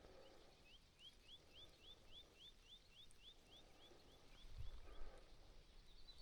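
A small songbird singing a run of about a dozen and a half quick rising notes, about four a second, in a quiet lakeside morning; a soft low rumble comes about four and a half seconds in.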